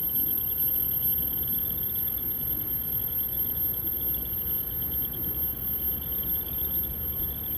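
Steady low rumble of a freight train rolling by, with a continuous high, rapidly pulsing trill over it.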